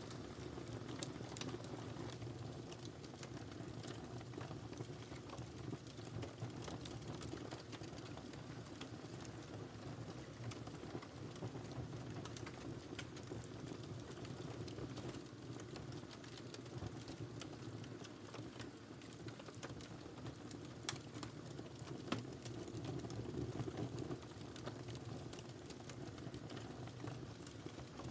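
Wood fire crackling in a fireplace: a steady low rumble of burning with many small pops and snaps, and a couple of sharper pops about three-quarters of the way in.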